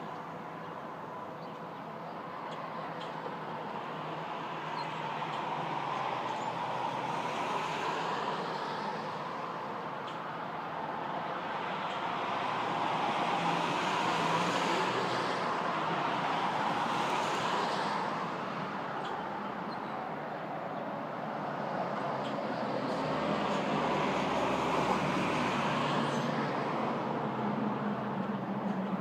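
Road traffic going by: a steady rush of vehicle noise that swells and fades about three times as vehicles pass.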